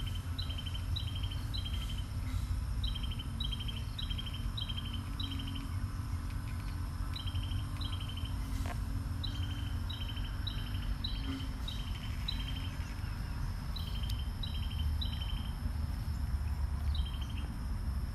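A small bird calling over and over: a short high note followed by a lower buzzy note, in runs of several calls with short pauses between runs, over a steady low rumble.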